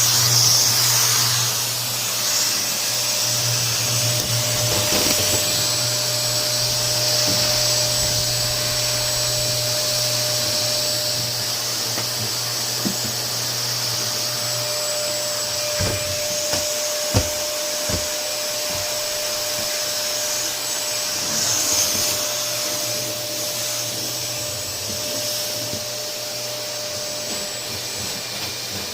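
Canister vacuum cleaner running steadily: a motor whine over a hiss of rushing air. Three light knocks come around the middle.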